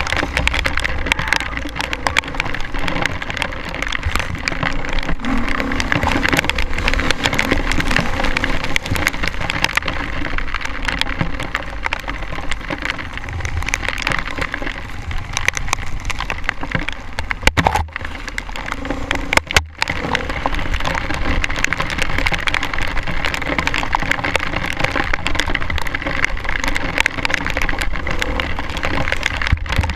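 Dirt bike running on a trail, heard over dense crackling and clattering, with rain pattering throughout; a brief drop in level comes a little after two-thirds of the way through.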